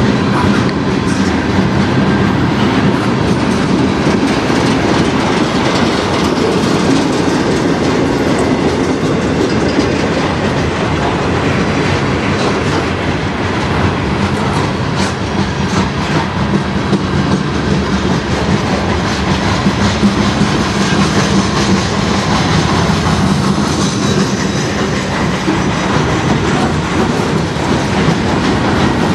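Cars of a manifest freight train, including tank cars, gondolas and covered hoppers, rolling steadily past: a constant rumble of steel wheels on rail with irregular clicks over the rail joints.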